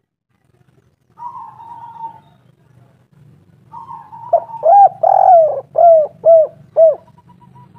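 Spotted dove (tekukur) cooing a phrase of about six loud arching coos, with a longer coo in the middle, over a steady low hum.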